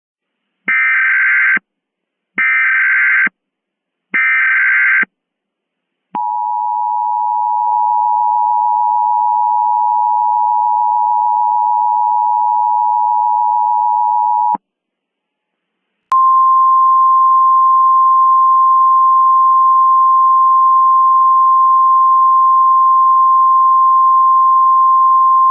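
Emergency Alert System tones: three short screeching bursts of digital header data, then the two-tone EAS attention signal held for about eight seconds. After a brief pause, a single steady alert tone sounds for about ten seconds.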